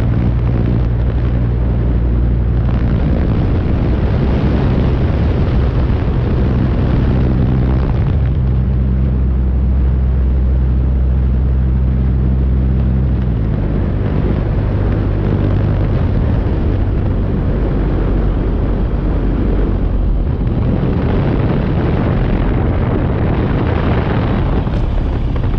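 Seaplane's propeller engine droning steadily under a loud, rough rumble of wind and airframe noise. About halfway through, the engine note steps down as power comes back for the landing.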